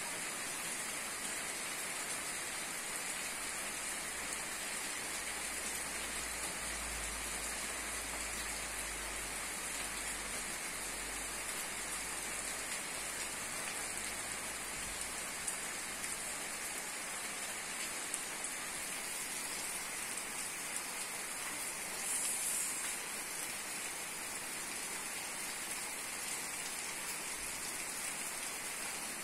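Steady rain falling on surfaces: an even, unbroken hiss, with a brief swell about two-thirds of the way through.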